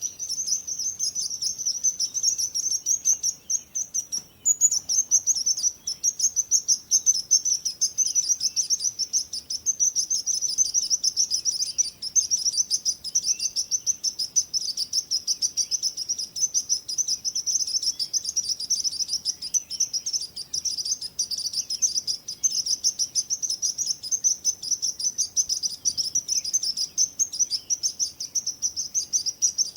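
Small songbirds chirping rapidly and without let-up, a dense stream of high-pitched chirps with a brief break about four seconds in.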